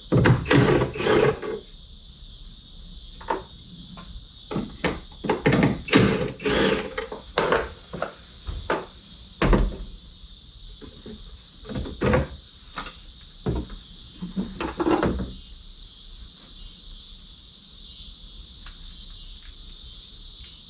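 Hard plastic clicking, knocking and rattling as the 4Runner's brake light bulb sockets and tail light housing are handled and fitted. The clatter comes in clusters for most of the stretch, then stops about three-quarters of the way through. A steady high insect chirring runs underneath.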